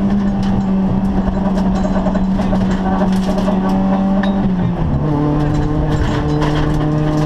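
Opel Astra GSi rally car's engine heard from inside the cabin, running at a steady high pitch, then dropping to a lower steady note about four and a half seconds in as the driver changes gear. Short clicks and rattles run through it.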